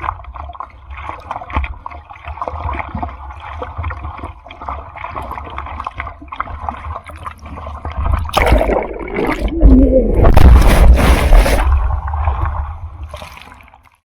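Seawater sloshing and gurgling around the camera in typhoon surf, swelling about eight seconds in into a much louder rush of churning water with a deep low rumble, then fading out near the end.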